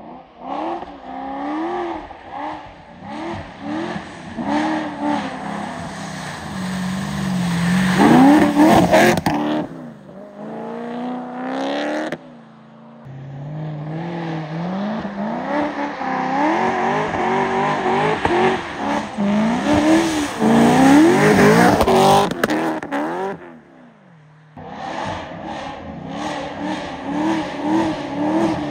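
Supercharged BMW E90 M3 V8 revving up and down again and again as the car drifts on snow. The sound is in several clips, broken by sudden drops about twelve and twenty-four seconds in, and the loudest revs come around eight and twenty-one seconds.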